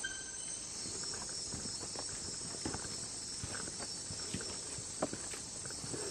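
Night rainforest insects such as crickets keep up a steady high-pitched chirring, with scattered footsteps crackling and tapping on the forest floor. One sharper tap comes about five seconds in.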